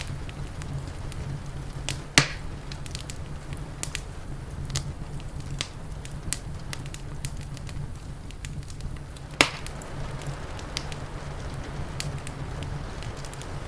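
Wood fire crackling, with scattered small pops and two sharp louder snaps, one about two seconds in and one about nine seconds in, over a steady low rumble.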